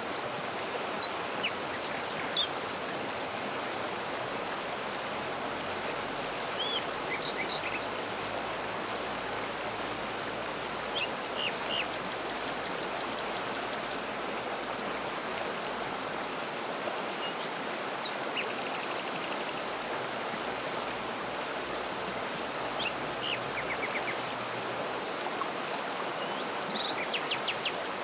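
Waterfall's steady rushing water, with birds chirping over it in short, scattered calls. A couple of fast, high-pitched trills come in around the middle.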